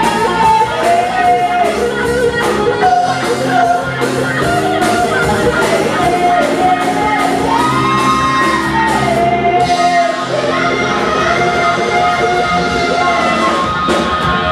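A live band playing a Mandarin xinyao pop song with a lead singer, near the song's ending. The beat stops about nine seconds in, leaving sustained sung notes over a held chord.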